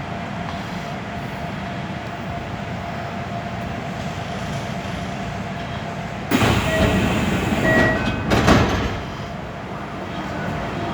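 Kintetsu electric commuter train running along the track, heard from the front car with a steady rumble and a faint steady whine. About six seconds in, a sudden loud rushing noise lasts around three seconds, with a few brief tones in it, then the steady running returns.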